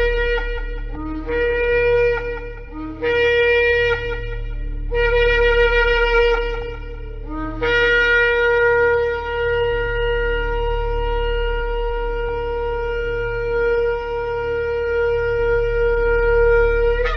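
Shofar (ram's horn) being blown: a run of short blasts, each rising from a lower note to a higher held note, then one long held blast of nearly ten seconds that stops near the end. A steady low hum sits underneath.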